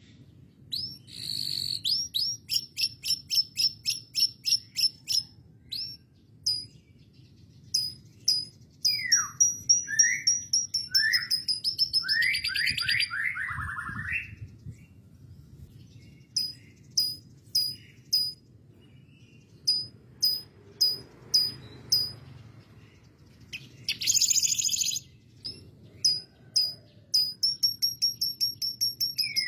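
Domestic canary singing: fast trills of short, high repeated notes broken by brief pauses, with a run of lower sweeping, falling notes partway through.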